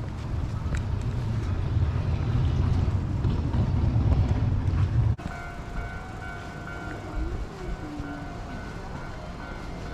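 Train rumbling, cut off abruptly about five seconds in, followed by quieter background with a steady high hum.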